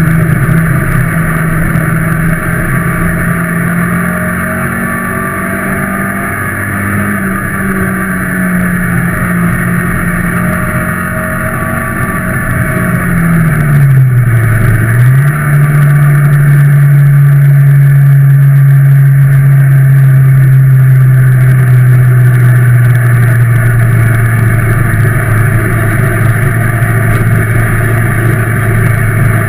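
Ministock race car's engine heard from inside the cab, running hard at a steady high note. About halfway through, the note dips briefly and comes straight back, then runs louder at a slightly lower steady pitch.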